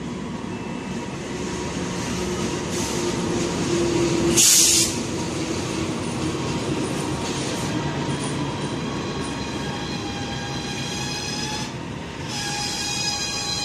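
CC 206 diesel-electric locomotive running in with a passenger train: a rising engine and wheel rumble, a brief very loud hiss about four and a half seconds in, then the coaches rolling by with steady high-pitched brake and wheel squeal as the train slows for the stop.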